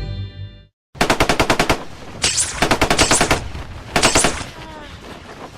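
Machine-gun fire sound effect in three rapid bursts of shots, the middle burst the longest.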